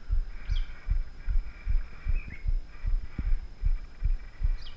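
Low, muffled thumps two to three times a second on the microphone, under birds chirping in the forest canopy: a short sweeping call that comes back about every two seconds.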